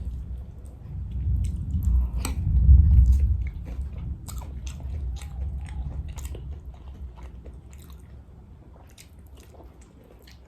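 Close-miked chewing and biting of fried chicken, with many short crisp crunches and mouth clicks over a low rumble. The rumble is loudest about two to three seconds in, and the chewing grows fainter toward the end.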